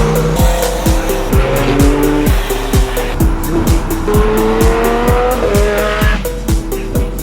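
Sports-car engines accelerating, rising in pitch over and over, with tyre noise, mixed with background music that has a steady beat. About six seconds in the engine sound falls away, leaving the music.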